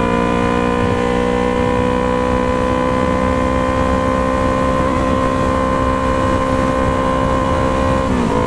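Yamaha MT-03's parallel-twin engine running at steady cruising revs through a Jeskap aftermarket exhaust, its pitch easing down slowly. Near the end the pitch dips sharply and recovers.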